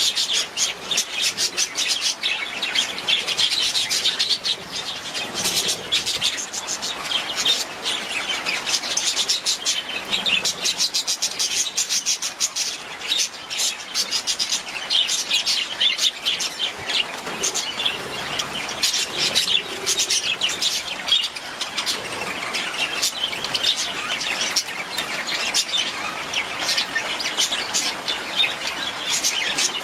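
Budgerigar chatter: a steady run of quick chirps, clicks and warbles.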